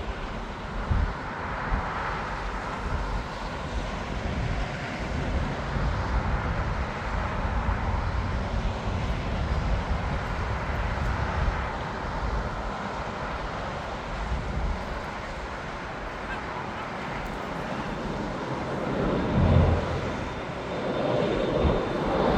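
Jet airliner engines running, a steady rushing jet noise that swells a little about two seconds in and again near the end.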